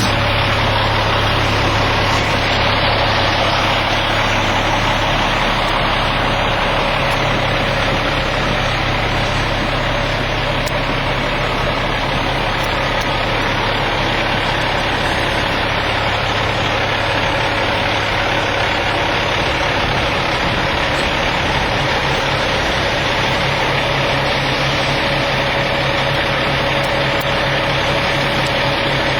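Caterpillar C-13 inline-six diesel engine of a Kenworth W900L dump truck idling steadily.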